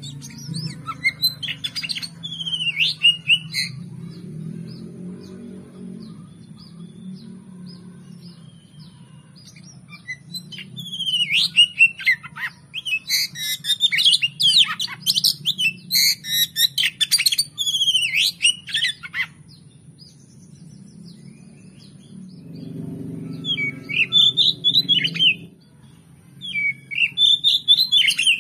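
Oriental magpie-robin singing in several bouts of rapid, varied whistled phrases, separated by pauses, over a steady low hum.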